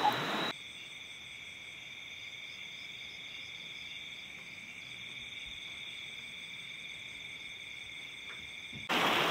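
Steady chorus of night insects, a continuous high-pitched trilling in a few even tones. A loud rush of water cuts off abruptly about half a second in and comes back near the end.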